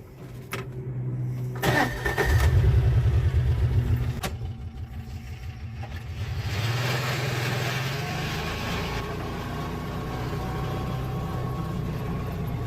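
An engine starts up: a loud, pulsing run for about two seconds, a dip, then a steady run from about six seconds in, with a few sharp clicks along the way.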